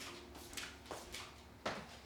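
A few light clicks and knocks of household objects being handled, the sharpest about three-quarters of the way through.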